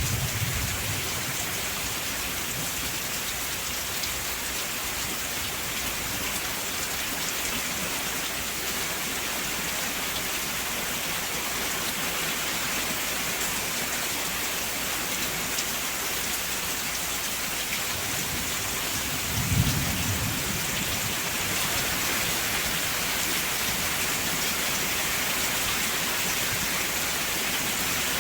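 Steady heavy rain hissing evenly. A short low rumble of thunder at the very start and another about two-thirds of the way through.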